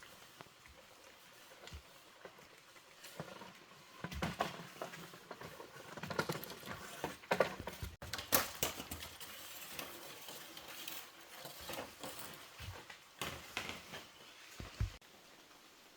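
Irregular knocks, clicks and rustling, as of things being handled and set down, over a faint steady hiss.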